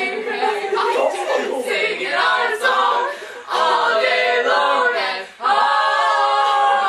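Several voices singing together a cappella, their overlapping lines chanting in a layered round, with short breaks about three and a half and five seconds in.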